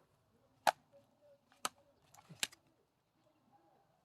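Axe striking firewood: three sharp wooden cracks about a second apart, with a short scrape just before the third.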